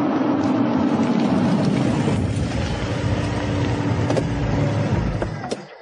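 A car engine running steadily, then stopping near the end.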